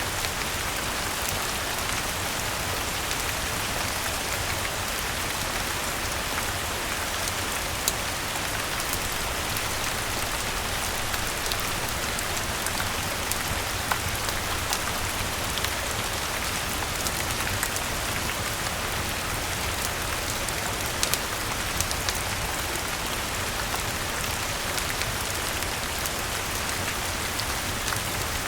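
Steady rain falling on a garden, mixed with a crackling wood fire: an even hiss with scattered sharp pops over a low rumble.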